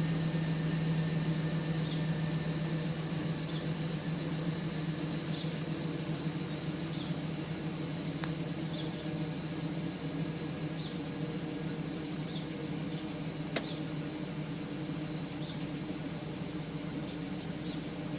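2003 Silverado 2500HD's 6.0-litre gasoline V8 idling after a cold start, its steady low note easing slightly about a second in. Faint short high chirps come every second or two, with a sharp click about eight seconds in and a louder one about thirteen and a half seconds in.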